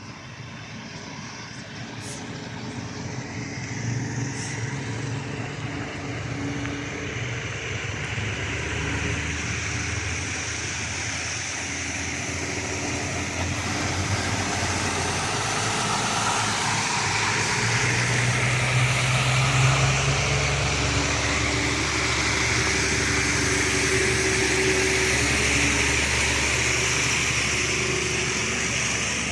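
Road traffic: a heavy vehicle's engine and tyre noise growing steadily louder as it approaches.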